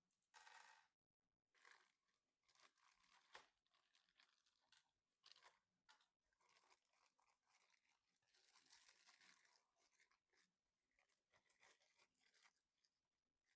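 Near silence with faint, irregular rustling and light clicks of hands handling parts and packaging, a little busier about two-thirds of the way through.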